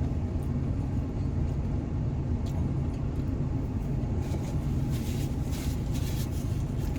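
Steady low rumble of an idling vehicle engine, with a short run of crinkling and rustling noises from about four seconds in.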